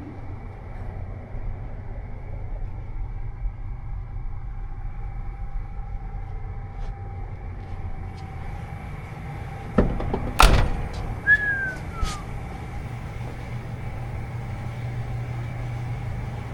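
A vehicle door shut with two heavy thuds about ten seconds in, over a steady low rumble, followed by a short falling squeak.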